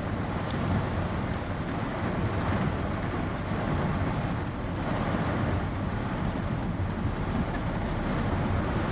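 Heavy rain pouring down in a thunderstorm, a steady, dense rushing noise with no breaks.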